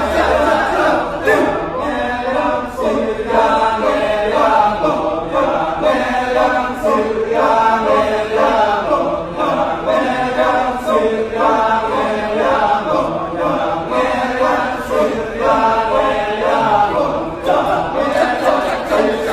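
Balinese kecak chant: a large group of voices chanting the rhythmic, interlocking "cak" in a dense, pulsing chorus without instruments.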